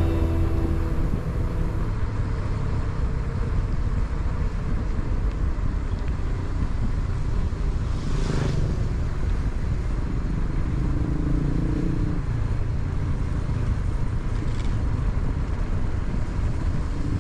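Steady wind rumble and rolling noise on an action-camera microphone while a mountain bike is ridden, with a brief rattle about eight seconds in.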